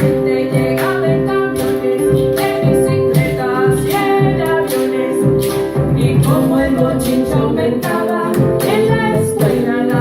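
Live children's song: a woman singing over guitar and a steady percussive beat.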